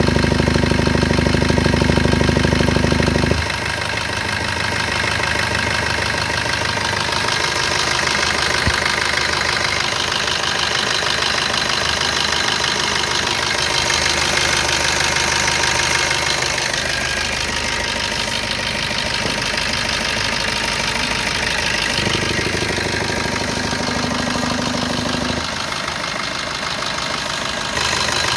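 Maruti Suzuki Brezza engine running at idle, recorded to capture a noise the owner is concerned about. Its sound changes abruptly about three seconds in, when a heavy low hum drops away, and shifts again twice near the end.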